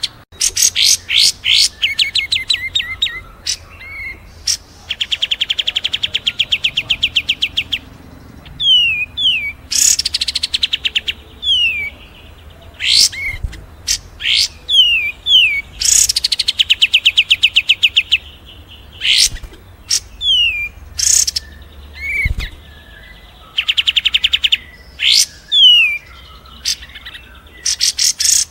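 Mixed songbird tutoring recording of several small birds singing: rapid trills of high chips, short falling whistles and sharp single chirps, coming in bursts with short pauses between.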